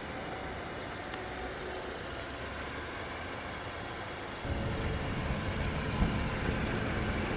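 2018 Audi A5 2.0T's turbocharged four-cylinder engine running steadily, its exhaust growing louder and deeper about four and a half seconds in.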